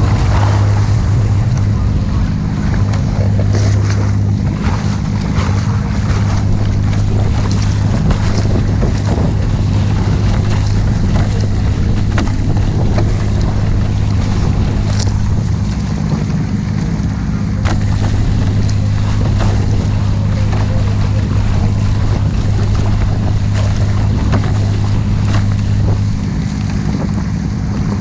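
Motorboat engine droning steadily, with rushing water and wind on the microphone; the engine hum eases slightly near the end.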